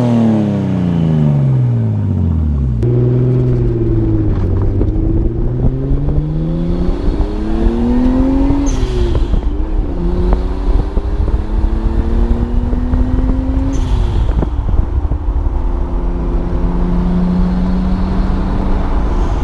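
Nissan RB25 turbocharged straight-six in a Triumph TR6 dropping back from a rev in the first seconds, then pulling the car up through the gears: the engine pitch climbs, falls at a gear change about eight and a half seconds in with a brief hiss, climbs again, shifts once more near fourteen seconds, and then holds steady while cruising, with wind rumbling on the microphone.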